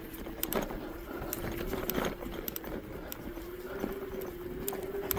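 Jasion EB5 Plus e-bike's electric motor whining steadily under power, its pitch wavering slightly, with scattered clicks and knocks from the tyres rolling over sticks in the snow.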